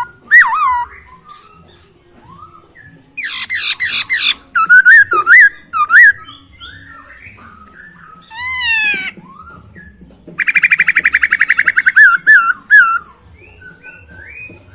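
Poksay Hongkong (masked laughingthrush) singing in loud, clear whistled phrases that slide up and down in pitch, with quick runs of slurred notes. Near the end comes a fast rattling trill of about a second and a half.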